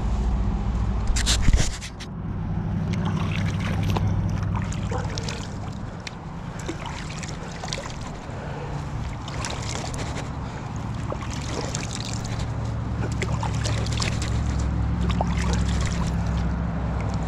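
Creek water splashing and sloshing as hands rinse sand off a fishing reel, with a louder splash about a second and a half in, over a steady low rumble.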